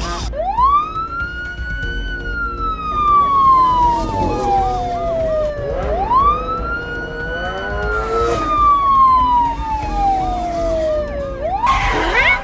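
Wailing siren in the style of a police car, sounding two long cycles: each one rises quickly, then slides slowly down over about five seconds. Light background music plays underneath.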